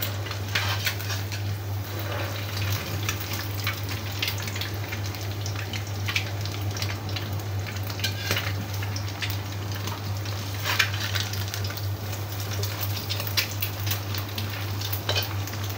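An egg frying in hot oil in a wok, a steady sizzle full of small pops and crackles, with a metal spatula moving in the pan now and then. A steady low hum runs underneath.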